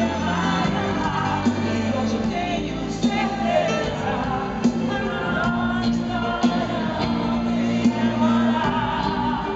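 Live band playing a slow pop ballad in concert, with bass, drums struck at a steady beat, and singing over the top.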